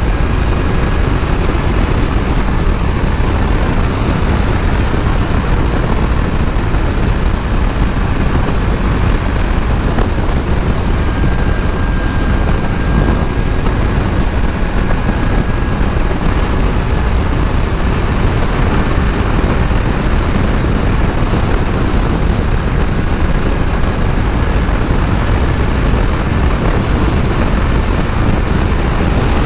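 Kawasaki Z900 inline-four motorcycle running steadily at highway speed, its engine note buried in heavy wind rush on the rider's microphone.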